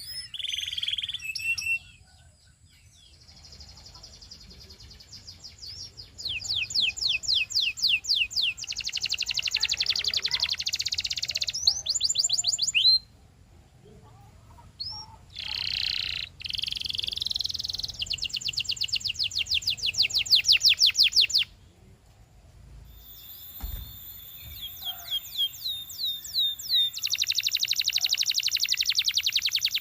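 Domestic canary singing: fast rolling trills of rapidly repeated high notes, in phrases of several seconds broken by short pauses.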